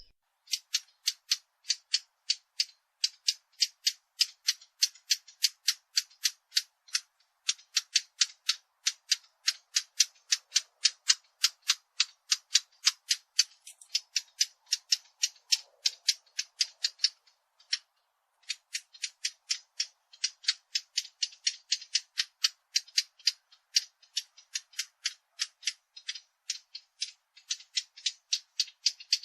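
A bird calling a fast, even series of short, sharp chip notes, about three a second, with a brief pause about two-thirds of the way through.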